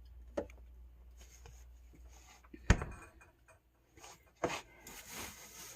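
A few light knocks and faint handling noise as grapes are put into a refrigerator drawer, with one sharper knock about two and a half seconds in.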